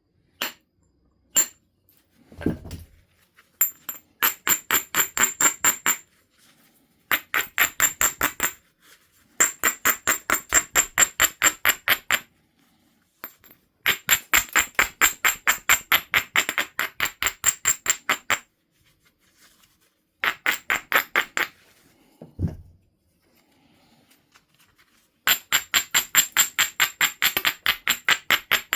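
Flint edge being rubbed with a coarse abrading stone: quick back-and-forth scraping strokes, about seven a second, in runs of two to five seconds with short pauses. This grinds down the edge to prepare striking platforms on the biface. Two dull thumps fall between the runs.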